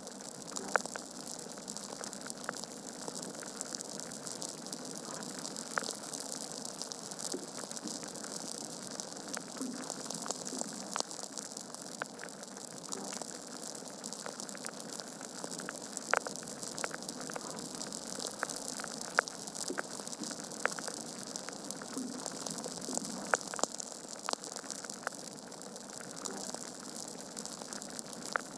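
Wood fire burning in a fireplace: a steady hiss with irregular crackles and pops from the logs, a few sharper pops standing out.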